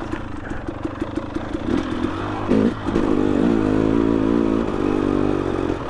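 Two-stroke dirt bike engine running at low revs with a choppy putter, then revving up about three seconds in and holding higher revs with a wavering pitch.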